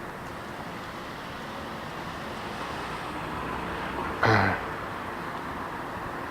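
Steady road traffic noise, swelling slightly as a vehicle goes by, with one short loud sound about four seconds in.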